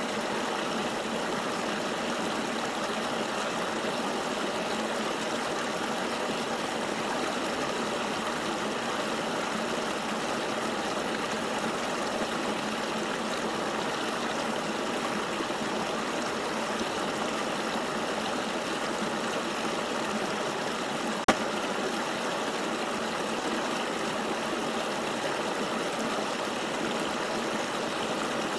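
Flowing river water, a steady, even rushing hiss with no lulls. A single sharp click about two-thirds of the way through.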